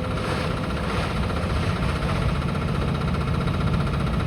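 Steady low rumble of a diesel engine running, with a brief hiss that swells and fades in the first second and a half.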